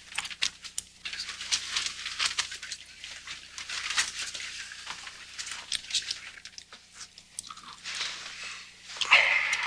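Rustling and crinkling with many small crunching clicks, like paper or a wrapper being handled, with a louder rustle about nine seconds in.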